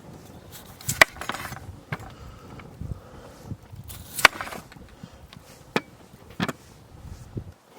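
A knife chopping on a wooden cutting board during food preparation: a handful of sharp, irregularly spaced knocks.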